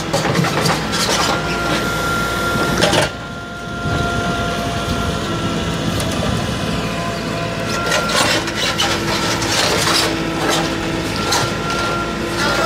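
Backhoe loader's diesel engine running under load with a steady hydraulic whine, while the bucket scrapes and clanks repeatedly against rubble and soil.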